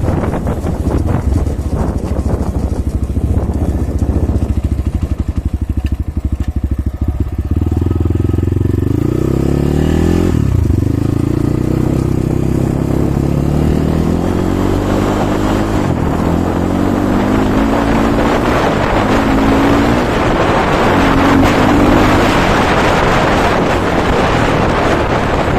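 Kovi Advance 300 enduro motorcycle engine being ridden on a warm-up run: it pulls up in revs, drops back at each gear change and climbs again several times, with wind buffeting the microphone.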